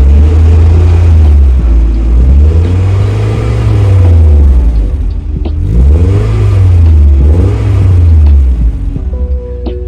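Car engine being revved repeatedly, its pitch climbing and falling back about four times.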